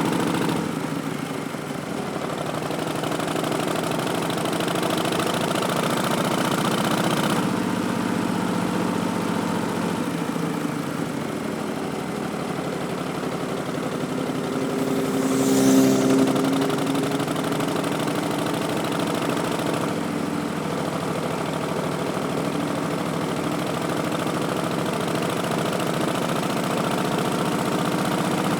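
Harley-Davidson Street Bob's Milwaukee-Eight 107 V-twin running steadily under way through Vance & Hines Twin Slash slip-on mufflers. The engine swells briefly in loudness about halfway through.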